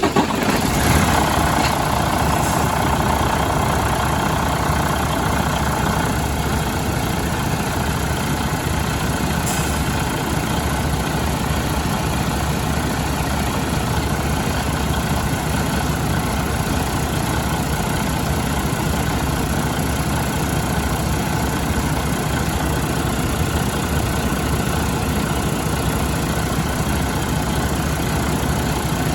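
Detroit DD15 inline-six diesel engine idling steadily just after start-up. A higher whine rides over it for the first few seconds and drops away about six seconds in.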